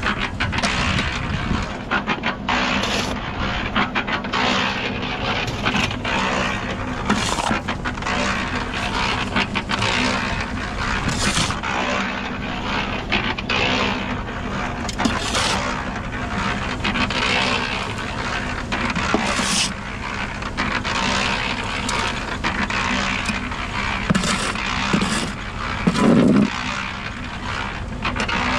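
A steady engine or machine hum, with repeated scraping and clattering of work over it.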